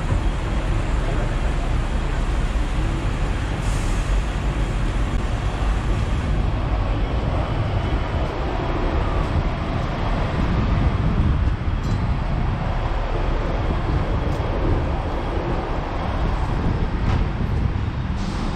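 Hong Kong double-decker tram running, heard from on board: a steady low rumble of the tram and its wheels on the rails, mixed with street traffic, with a few faint clicks.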